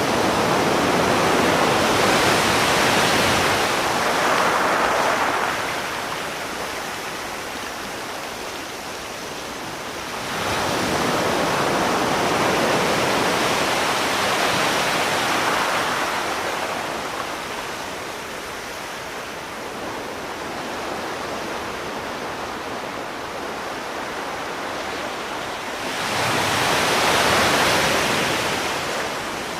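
Sea waves washing onto the shore: three slow surges of rushing water, roughly ten seconds apart, with a softer steady hiss between them.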